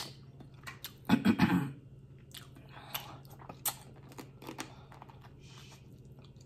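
A person chewing and biting food close to the microphone, with scattered short wet mouth clicks. A louder burst comes about a second in.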